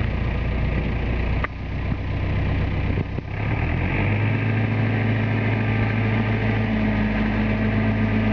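A motor engine running steadily. About three seconds in, its speed rises a little, and it then holds at the higher speed.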